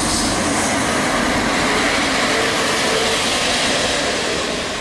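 Regional diesel multiple unit passing close by at low speed. The engine and the wheels on the rails make a steady, loud running noise that starts to ease off near the end.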